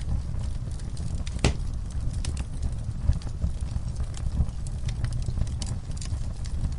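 Wood fire in a fire pit crackling and popping: irregular sharp pops from burning logs and coals, one louder pop about a second and a half in, over a steady low rumble.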